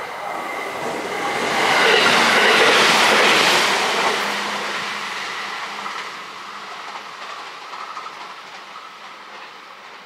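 JR West 521 series electric train passing at speed, the rumble and clatter of its wheels on the rails loudest about two to four seconds in, then fading steadily as it runs away into the distance.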